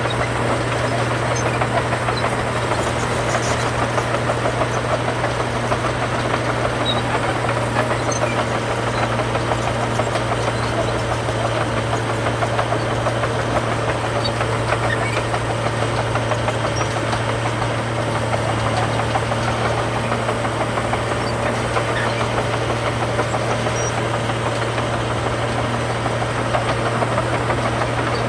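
Heavy diesel engine of earthmoving machinery running steadily at a constant speed, with a low hum and a fast, even chatter.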